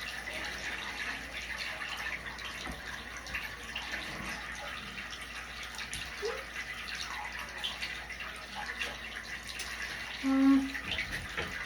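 Tap water running steadily into a bathtub, an even hiss. A short burst of voice comes near the end.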